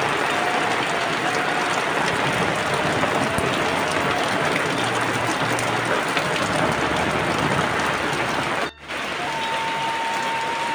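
Steady rain falling, a dense even hiss, with a faint thin steady tone under it. The sound drops out for a moment about two seconds before the end, then the rain resumes.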